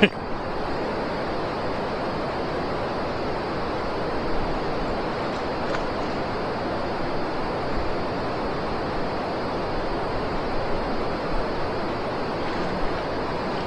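Steady rush of river water with wind, an even noise with no breaks; a short click right at the start.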